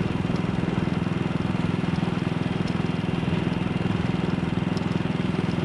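AJS Model 8 single-cylinder motorcycle engine running at a steady speed on the move, an even beat with no change in revs.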